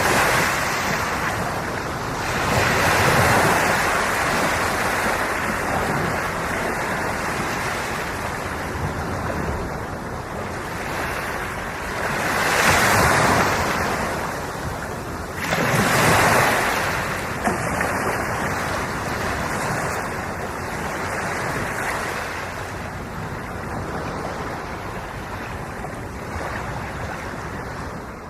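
Ocean surf: waves breaking and washing on the shore in a steady rush, with louder breakers about 3, 13 and 16 seconds in. The sound fades out at the very end.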